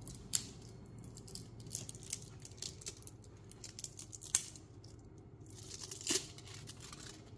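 Packaging crinkling and tearing with irregular sharp clicks and light knocks, the sharpest about four seconds in, as a new oil filter is handled and unwrapped.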